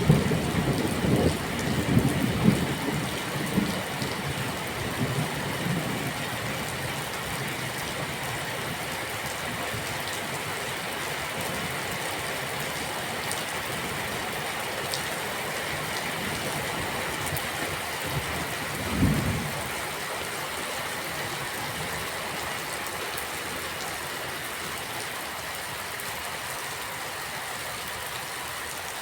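Steady rain falling, a continuous even hiss. Low thunder rumbles through the first few seconds and dies away, and a short low rumble comes again about two-thirds of the way through.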